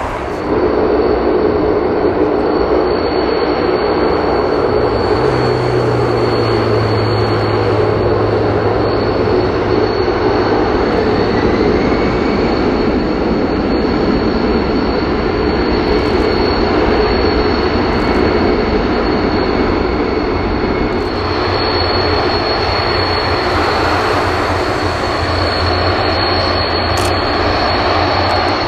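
Antonov An-12A's four Ivchenko AI-20 turboprop engines running: a loud, steady drone with a constant high whine. A low hum beneath it drops in pitch about five seconds in.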